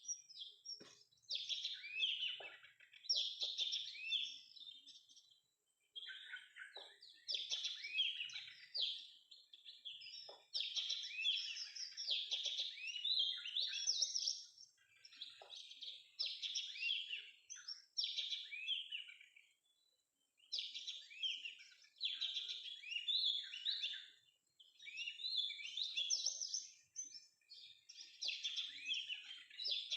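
Oriental magpie-robin song: rapid, varied whistled and chirped phrases in runs of one to three seconds, separated by short pauses.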